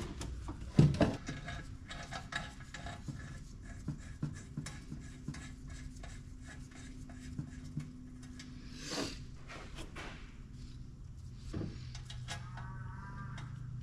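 Scattered clinks, taps and scraping of metal parts and hand tools being handled while fitting the compressor assembly, over a steady low hum in the background.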